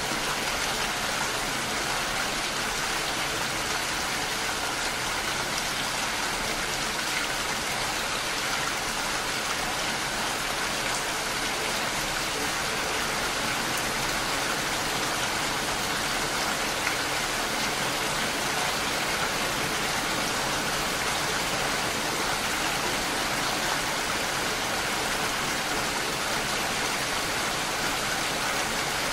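Steady rain falling, an even hiss of many drops with no change through the whole stretch.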